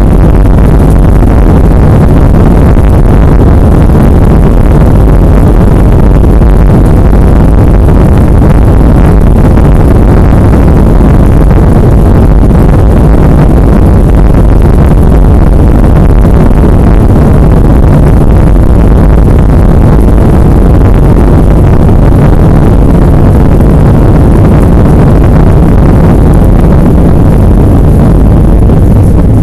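Airliner cabin noise during takeoff: loud, steady rumble of the jet engines and airflow, heaviest in the low end.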